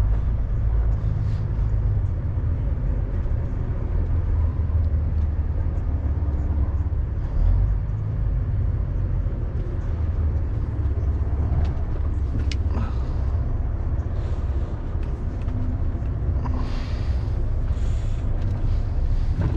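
Lorry's diesel engine running at low speed, heard inside the cab as a steady low rumble, with a few sharp clicks about twelve seconds in and a short hiss of air near the end.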